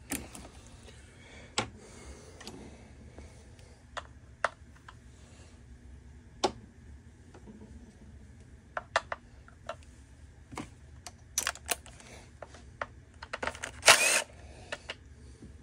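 Scattered clicks and taps of hand tools on a Homelite string trimmer's plastic housing as it is taken apart, with a short louder clatter near the end.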